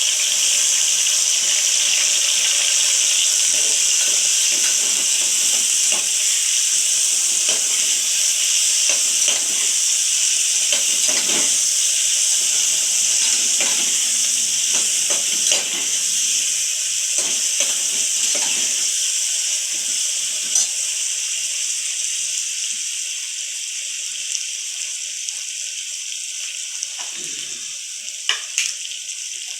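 Sliced onions and green chillies sizzling in hot oil in a pressure cooker, a steady hiss that slowly dies down as they fry. A spoon stirring and scraping adds scattered clicks and knocks.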